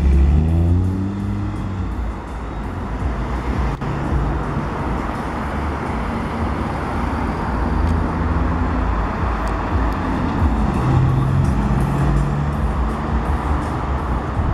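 Audi R8 Spyder's engine revving up as the car accelerates away, its note climbing in pitch, then running on with the rumble of traffic and climbing again a few seconds before the end.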